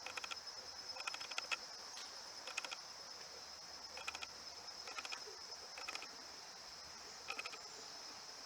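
Faint insect chorus: a steady high-pitched buzz with short pulsed chirping trills that recur irregularly about once a second.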